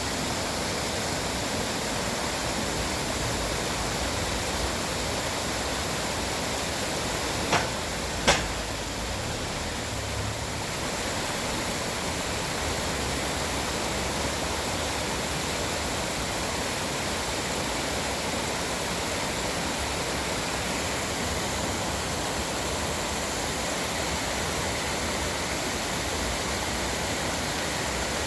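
Steady rush of flowing stream water, even and unbroken, with two brief sharp knocks a little under a second apart about seven to eight seconds in.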